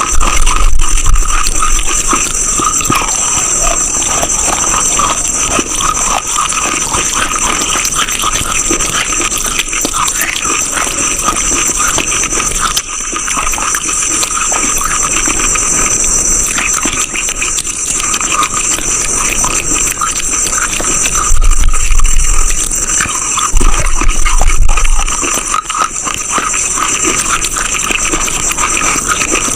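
Dense, continuous crunching and crackling of brittle chalky material being crunched, with two heavier, deeper stretches about two-thirds of the way through.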